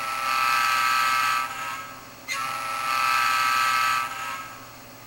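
Model diesel locomotive horn from a Digitrax SDH164D sound decoder, played through a small speaker: two long, steady chord blasts with a short break between them, and a third starting at the very end.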